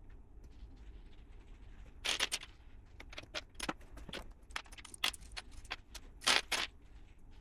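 Loose plastic LEGO pieces clattering and clicking as they are handled, in a run of quick small clicks with two louder rattling bursts, one about two seconds in and one near the end.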